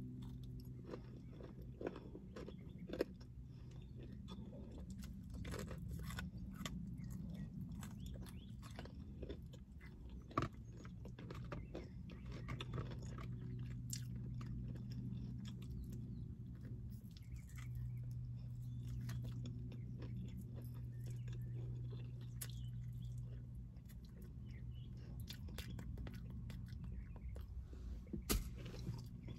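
Close-up chewing and crunching of crispy fried chicken wings, with sharp crunchy bites about 3 s, 10 s and 28 s in, over a low steady hum.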